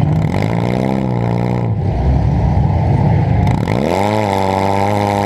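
Demolition derby car's engine revving hard, heard onboard: the pitch climbs and holds, drops away a little before the middle, then climbs again about four seconds in and holds to the end.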